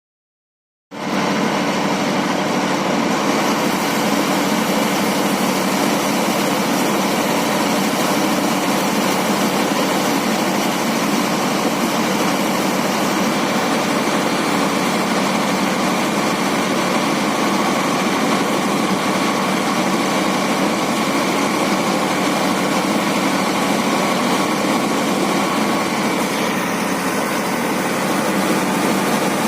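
Tractor-driven harvesting machinery running steadily, harvesting pigeon peas; the steady engine and machine noise cuts in suddenly about a second in.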